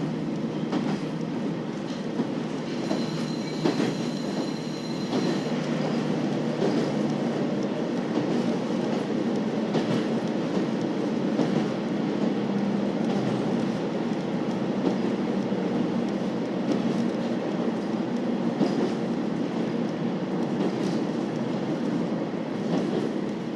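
KiHa 40 series 2000 subseries diesel railcar running along the line: a steady drone of the diesel engine and rolling wheels with scattered clicks from the rails, and a brief high thin tone from about three to five seconds in.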